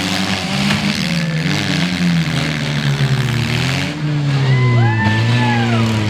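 Several four-cylinder demolition derby cars running at once, their engines revving up and down in pitch as they drive and ram each other.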